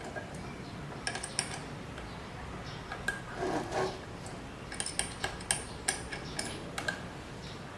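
Metal parts and hardware clinking and tapping against each other during hands-on machine assembly: a scatter of sharp clicks, bunched about a second in and again in a quick run from about five to seven seconds, with a short rub a little past three seconds in.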